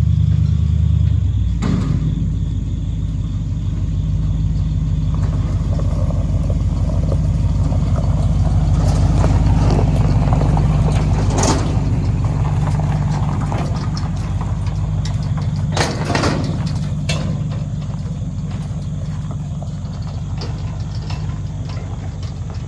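A vehicle engine idling steadily with a low, even note, with a few short clunks about halfway through and again about two-thirds of the way in.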